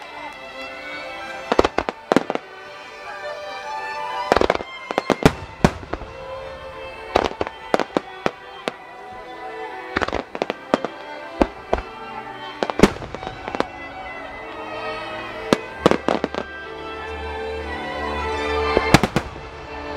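Aerial firework shells bursting in a rapid, irregular string of sharp bangs, sometimes several in quick succession, over background music whose deep bass comes in about three-quarters of the way through.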